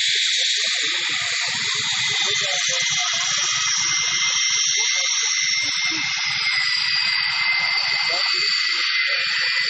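Panavia Tornado IDS jet noise from its twin RB199 turbofans: a steady loud rushing hiss with a high whine that slowly falls in pitch through the middle, over a faint uneven low rumble.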